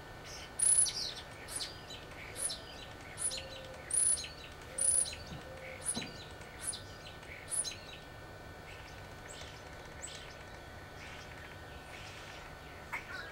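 A small bird chirping outdoors: short, high chirps that drop in pitch, repeated about once a second, then fainter and sparser in the second half, over a faint steady background hum.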